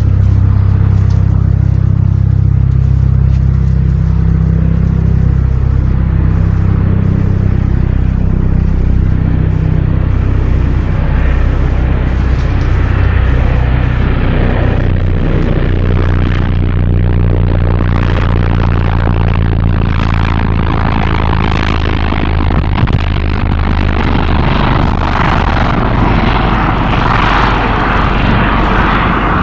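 Loud, steady, low engine-like drone, with a rougher, noisier hiss building up over the second half.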